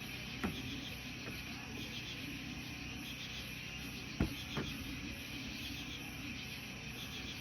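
Insect chorus chirring steadily at the campsite, with a high trill pulsing about two to three times a second. A few sharp clicks break in, the loudest pair about four seconds in.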